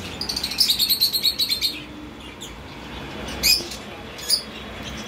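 Small birds chirping: a quick run of high chirps over the first couple of seconds, then two single chirps later on.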